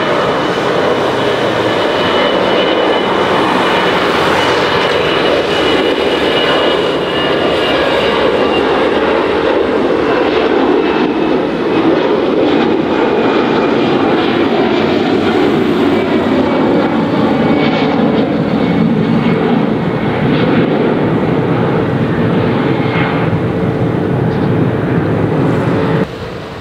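Airbus A320-200 jet airliner's engines running close by: a loud, steady roar with a thin high whine that slowly fades. The sound cuts off suddenly near the end.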